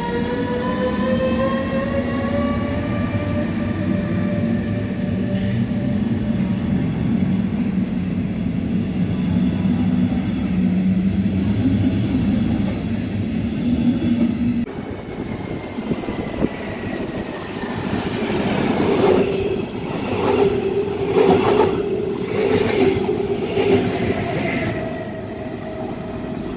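Trains running on rails: first a rising whine over a steady rumble as a train gathers speed, then, after an abrupt change about 15 seconds in, another train with repeated knocks of wheels over the rails and a steady tone.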